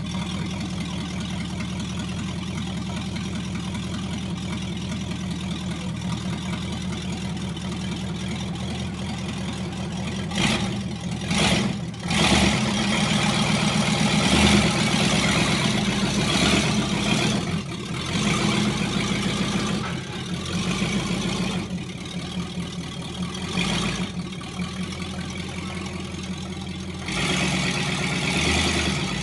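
1965 Buick LeSabre's V8 idling steadily, then given throttle in a series of surges from about ten seconds in, the engine note rising and falling, with another burst of throttle near the end.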